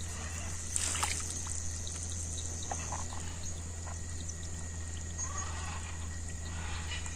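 Outdoor ambience: a steady high-pitched hiss and a low hum, with faint scattered ticks and small water trickles.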